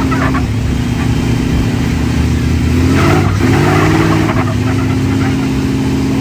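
Pulling truck's engine running loud and steady under throttle. Its pitch swings up and back down about three seconds in, then holds level again.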